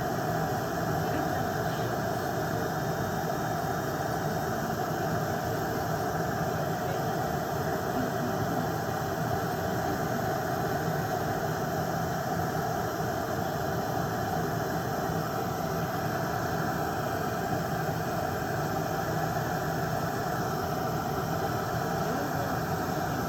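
Electric nail drill (e-file) running steadily at a constant speed with a high, even whine over a hum, its bit filing off gel polish.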